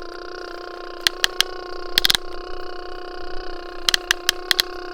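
A small electric motor whirring at a steady high pitch, with sharp mechanical clicks over it several times.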